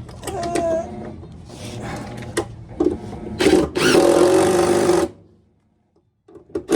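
Cordless power driver with a 10 mm socket running, spinning a bolt out. The motor sound is loudest in one steady run of under two seconds in the middle, then stops, with short bursts again near the end.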